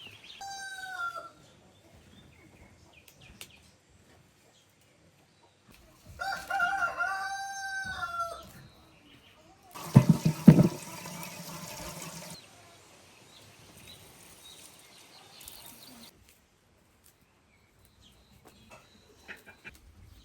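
Rooster crowing: a short call just after the start, then a full crow from about six to eight and a half seconds, ending in a long held note. About ten seconds in comes a loud thump followed by a couple of seconds of rustling noise.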